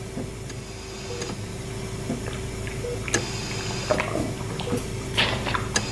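Layered horror sound-effects ambience: a steady low drone and hum, with a short blip repeating about every two seconds, scattered clicks, and wet dripping, squelching sounds growing busier near the end.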